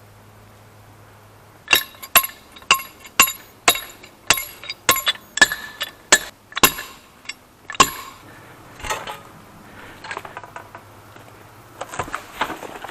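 About a dozen sharp hammer blows with a metallic clink, roughly two a second, then softer scattered knocks and rustling for the last few seconds: striking to free a chainsaw pinched in a tree cut.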